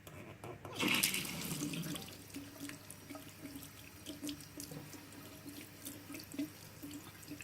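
Water tap turned on about a second in and running into a sink, with small clicks as the limescaled tap aerator's parts are rinsed under the stream.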